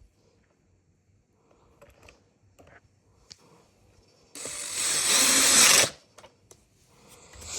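Light handling clicks and taps, then about four seconds in a small power tool's motor runs in one loud burst of about a second and a half and stops abruptly.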